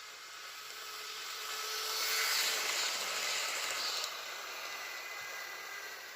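Hornby model J50 locomotive and coaches running past at full speed on the model track: the motor whirs and the wheels rattle on the rails. It grows louder to a peak about two to four seconds in, drops off abruptly, then fades as the train moves away.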